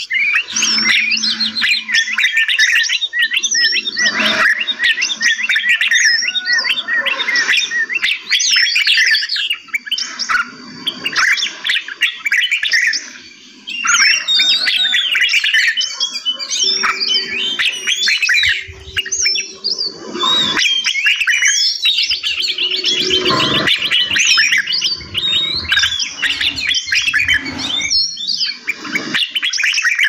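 Several small caged birds chirping and singing at once, close to the microphone: a dense, continuous run of rapid high chirps and short rising and falling whistled notes, with a brief lull about halfway through.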